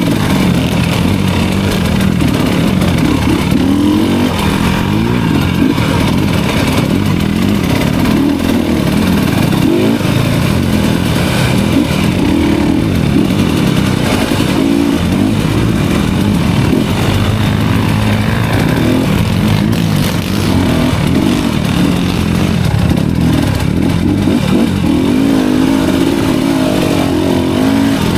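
Enduro dirt bike engine running continuously, its revs rising and falling again and again as it is ridden over the trail.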